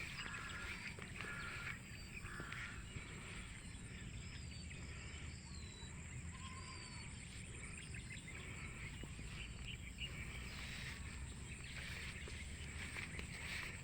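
Quiet rural outdoor ambience with faint, scattered bird calls: a handful of short chirps that rise and fall, over a steady low rumble.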